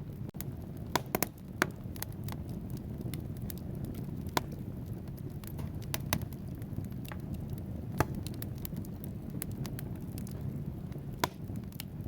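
Logs burning in a fireplace: a steady low rumble of flames with frequent sharp crackles and pops. A cluster of loud pops comes about a second in, with single loud pops near four, eight and eleven seconds.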